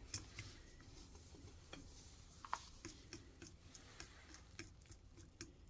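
Faint, irregular clicking of a utensil against a mixing bowl as pancake batter is stirred.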